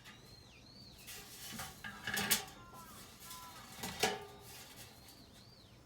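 Metal clattering and scraping, with sharp clanks about two and four seconds in, likely from handling the sheet-metal parts of an incinerator. A bird gives short arched whistles near the start and again near the end.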